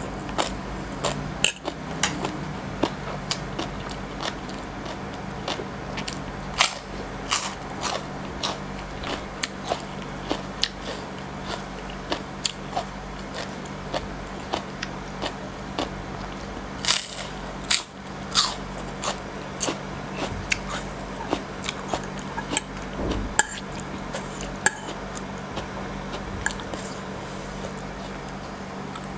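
Close-miked biting and chewing of green papaya salad and raw lotus stem: crisp crunches and wet mouth clicks at irregular intervals, with louder clusters of crunches about seven and seventeen seconds in. A steady low hum runs underneath.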